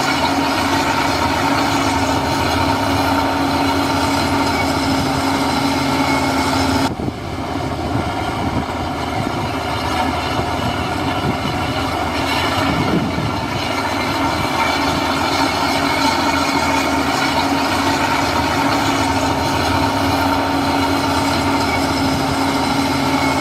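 Diesel engine of heavy earthmoving machinery running steadily, with a constant tone over the engine noise. The sound cuts off abruptly about seven seconds in and comes back a moment later at the same steady level.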